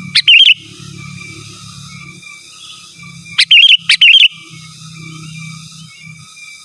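Sooty-headed bulbul (kutilang) calling: three short, loud, bubbling phrases, one right at the start and two in quick succession about three and a half seconds in, over a faint low rumble.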